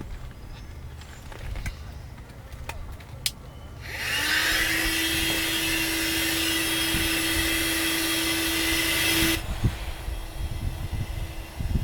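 A small electric motor with a rush of air, like a handheld blower or air pump, starts about four seconds in. It rises briefly to a steady hum, runs for about five seconds and cuts off suddenly. A few light handling clicks and knocks come before it.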